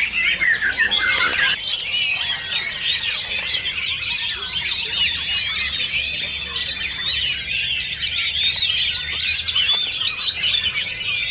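Many caged songbirds singing and chirping at once in a dense, continuous chorus of quick whistled notes.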